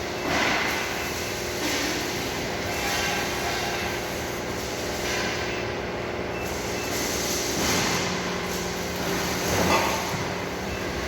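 Automatic muffler-pipe cutting machine running: a steady machine hum with a rasping swell of cutting noise every couple of seconds.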